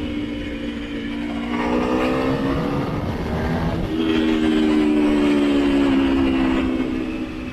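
Motorcycle engine running at a steady road speed, heard from on board over wind rumble. Its note shifts in pitch about a second and a half in and again about four seconds in.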